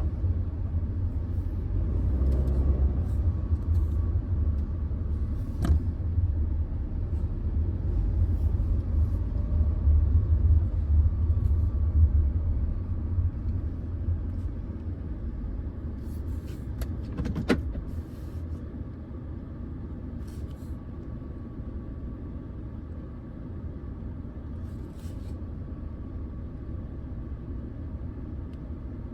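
Car running with a low rumble that eases off and settles to a quieter, steady level about two-thirds of the way through. There is a single sharp click just before it settles.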